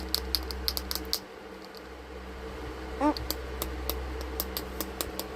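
Eclectus parrot clicking: a rapid run of sharp clicks, several a second, that stops about a second in. A single short chirp comes about three seconds in, then the clicking resumes.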